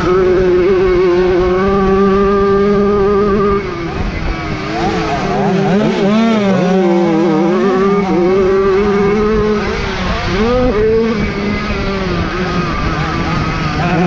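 Jawa 50 single-cylinder two-stroke motorcycle engines running at high revs. One high engine note holds steady, then about four seconds in several engine notes rise and fall across each other for several seconds before settling back to a steady note.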